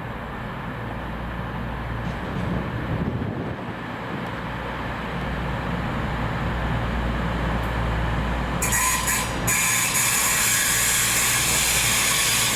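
A train passing close by, its rumble growing louder. About nine seconds in, a high-pitched metallic wheel squeal with many tones sets in and holds.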